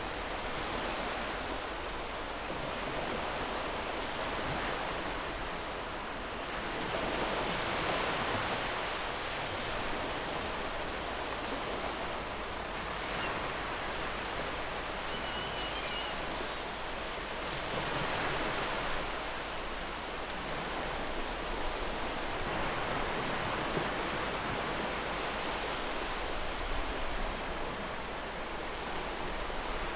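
Waves washing on a shore, a steady rush that swells and falls back every several seconds, with a brief faint high chirp about halfway through.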